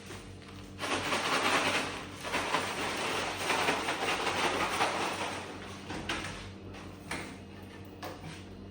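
A bag of popcorn being handled and rustled for about five seconds, then a few light knocks and a sharp bang of the microwave door closing at the very end.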